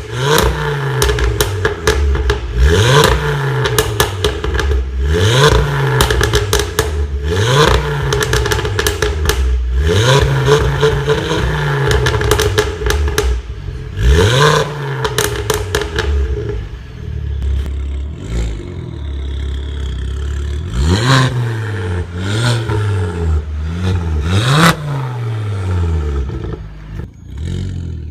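Ford Focus ST225's turbocharged 2.5-litre five-cylinder engine revved repeatedly through a decat exhaust, one blip every two to three seconds, with crackles and pops on the overrun after each. Partway through it settles to idle for a few seconds, then three more quick revs follow near the end.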